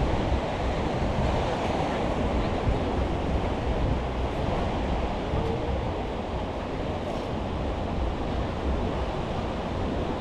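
Steady rushing wash of ocean surf, mixed with wind buffeting the microphone.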